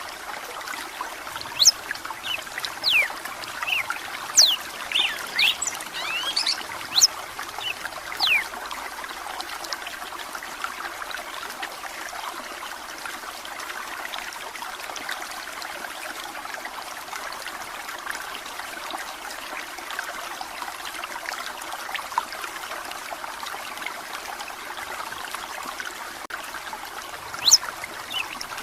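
Running water trickling steadily, with a red-cowled cardinal (galo-de-campina) singing a run of quick, sharp whistled notes over the first eight seconds or so and again briefly near the end.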